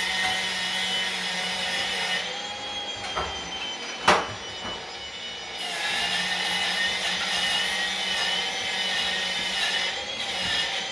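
Electric power tool with a steel wire brush scrubbing a stone wall, its motor running with a steady whine, with one sharp knock about four seconds in.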